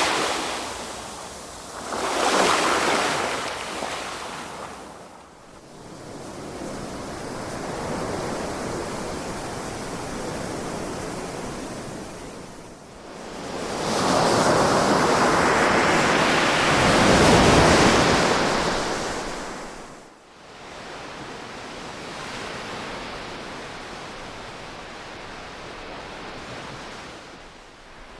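Ocean waves breaking and washing ashore in slow surges that swell and fade. Two louder waves come near the start, and the biggest comes a little past the middle, with quieter wash between them.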